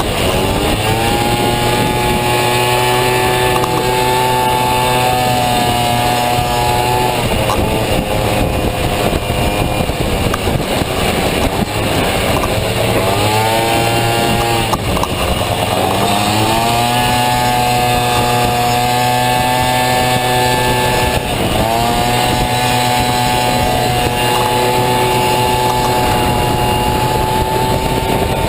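Honda Dio 50cc two-stroke single-cylinder scooter engine in a Honda Motocompo running at high revs under racing throttle. The pitch climbs and holds steady for several seconds, drops off briefly and climbs back up three or four times.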